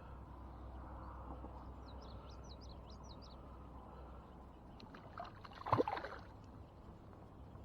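Quiet water and boat background with a bird calling a quick run of chirps about two seconds in. Near six seconds comes a short, loud splash, the loudest sound here.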